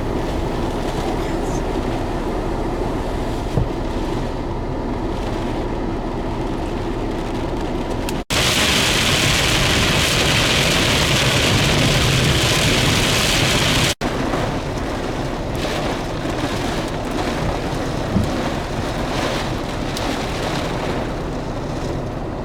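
Storm noise: a steady rush of wind and rain over a low rumble, in three stretches split by abrupt cuts about 8 and 14 seconds in. The middle stretch carries a louder, brighter hiss.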